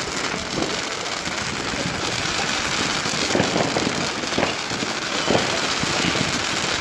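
Fireworks going off: a dense, steady crackling, with a few louder pops in the second half.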